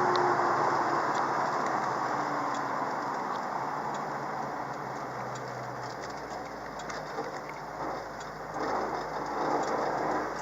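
1971 Dodge Charger R/T's 440 V8 running with steady road noise that slowly fades, as a car easing off and slowing. A few light knocks and rattles come in the second half.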